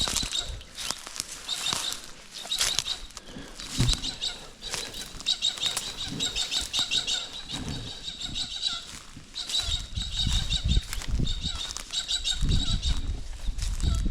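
Small birds chirping in a busy, rapidly repeated high chatter, with scattered light crackles. There are low rumbles on the microphone about ten seconds in and again near the end.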